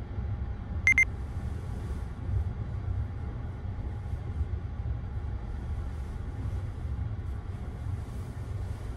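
Sleeper train running, heard from inside a berth: a steady low rumble of the carriage with a faint even hum. About a second in come two short, high beeps.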